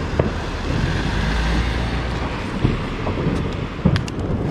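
Dense rumble of many distant New Year's fireworks going off at once, with wind on the microphone and a couple of sharper bangs, one near the start and one near the end.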